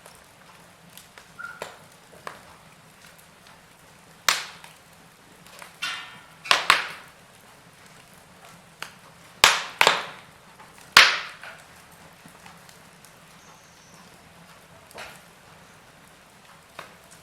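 Log fire crackling: about half a dozen loud, sharp pops and snaps bunched in the middle, over scattered faint crackles and a low steady hiss.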